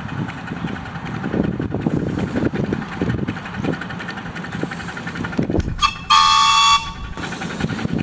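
1/8-scale ride-on locomotive sounding a single short horn blast of several tones, under a second long, about six seconds in. A steady rumble with irregular knocks of the running train underlies it.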